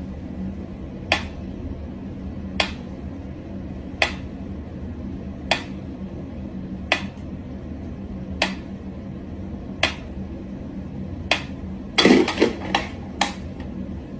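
Sharp single clicks or taps, evenly spaced about one and a half seconds apart, over a steady low hum; near the end they come in a quick run of four or five.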